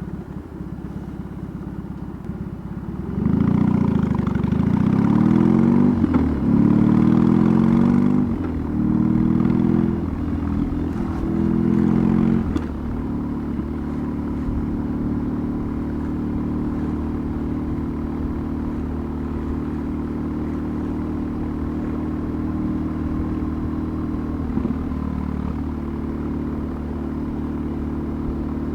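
BMW R18's big air-cooled boxer twin pulling hard up through about four gears. The pitch climbs and drops back briefly at each shift, loudest at this stage. From about halfway through it settles into a steady cruise.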